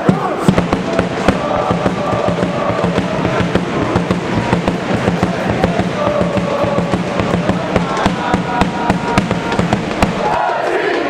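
Soccer supporters' section singing a chant over fast, steady drumbeats.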